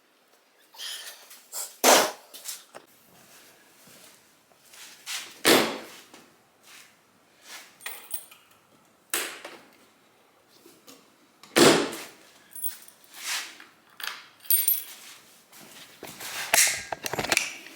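Irregular knocks, clinks and clatter of tools and metal parts being handled during motorcycle reassembly. The loudest knocks come about 2, 5.5 and 11.5 seconds in, with lighter rattles between.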